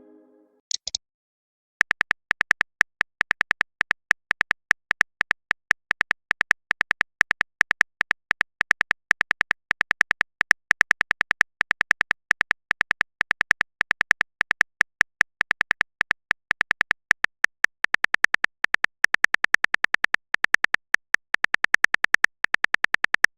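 Phone-keyboard typing sound effect: a long, even run of rapid short clicks starting about two seconds in, after a brief high chirp.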